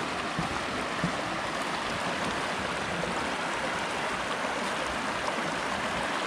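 River water rushing steadily over a solid rock bed.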